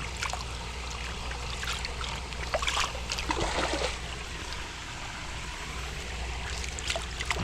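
Pond water trickling and splashing as fish eggs are washed off a rock back into the pond, over the steady run of flowing water, with a few louder splashes in the middle and near the end.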